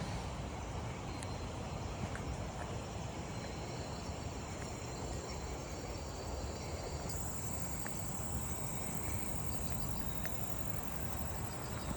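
Steady high-pitched insect song, with the pitch stepping up to a higher, louder tone about seven seconds in, over a low steady background rumble.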